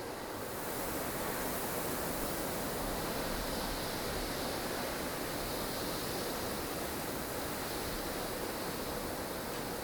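Blustery snowstorm wind: a steady, dense rush of gusting wind, swelling slightly in its upper hiss a few seconds in.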